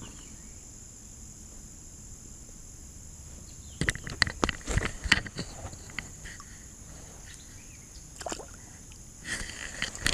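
Crickets keep up a steady high chorus. A burst of knocks and clatters comes about four seconds in and again near the end.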